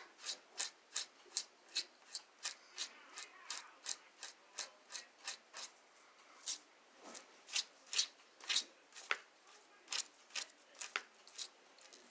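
A comb pulled through a toy horse's synthetic hair in a run of short strokes, about two or three a second at first, then less regular.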